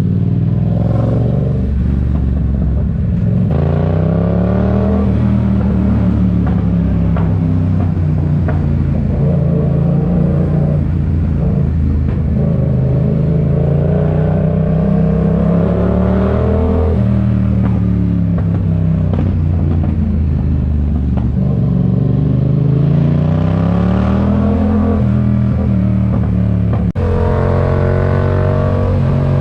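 Yamaha MT-07's parallel-twin engine through an aftermarket RoadsItalia exhaust, under way on the road. The engine note rises and falls again and again as the bike pulls up through the revs and then eases off.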